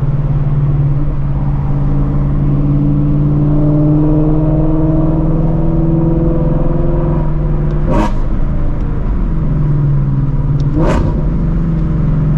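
Straight-piped Shelby GT350's 5.2-litre flat-plane V8, through long-tube headers, droning loud at highway speed, its note climbing slowly as it pulls. Two short sharp sounds come about three seconds apart near the end, the drone dropping briefly after the first.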